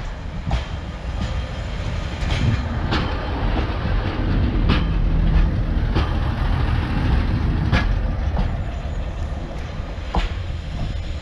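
Class 143 Pacer diesel railbus passing close by: a steady diesel rumble with sharp clacks of its wheels over the rail joints every second or two, loudest about halfway through.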